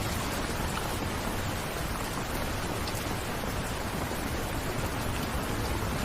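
Steady rainfall, an even hiss of rain with a few faint drops pattering.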